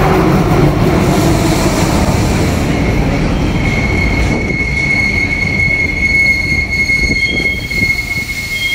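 Diesel multiple-unit passenger train running alongside a station platform as it slows to a stop: a dense rumble of the carriages, then from about three and a half seconds a steady high squeal as it brakes, fading out near the end.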